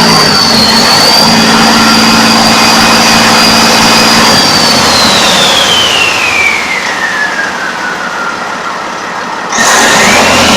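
Engine running fast on a test stand with a high whine, holding steady at first, then slowing and falling in pitch from about halfway, and abruptly speeding back up near the end.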